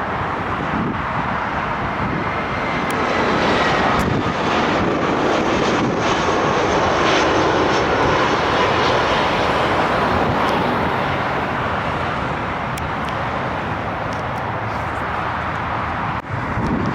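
Engines of an arriving airliner passing on its landing approach, growing louder and then slowly easing off, with a whine that falls steadily in pitch as the aircraft goes by.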